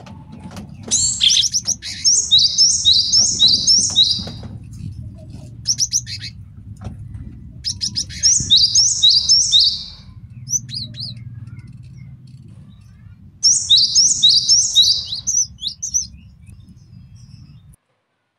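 Male cinereous tit (gelatik batu) singing: three bouts of a quickly repeated high phrase, with short chips between bouts. A faint low hum lies underneath and cuts off just before the end.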